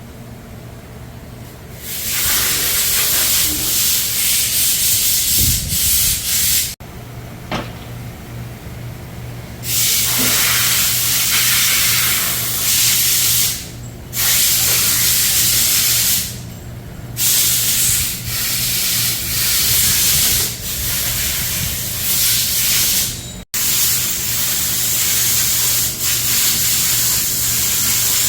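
Repeated long bursts of hissing spray, each a few seconds long with short breaks between, over a steady low hum.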